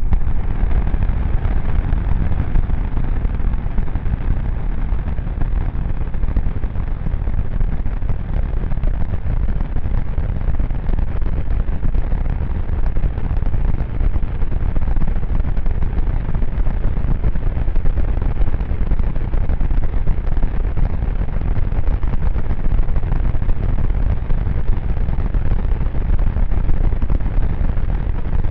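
Super Heavy V3 booster's 33 Raptor engines firing together in a static fire: a loud, steady rumble.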